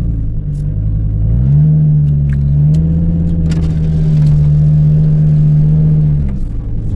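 Car engine running under way; its pitch rises about a second and a half in, holds steady, then falls off near the end as the car eases off.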